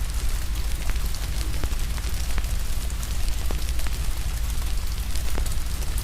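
Wood fire crackling with irregular sharp pops over steady rain hiss, with a steady low rumble underneath.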